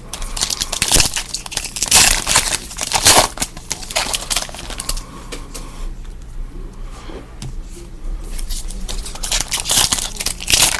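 Foil wrappers of football trading-card packs crinkling and tearing as the packs are opened, in irregular bursts of rustling.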